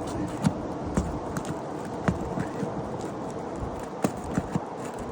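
A handful of sharp, irregularly spaced knocks and taps from work on an asphalt shingle roof, over a steady background noise.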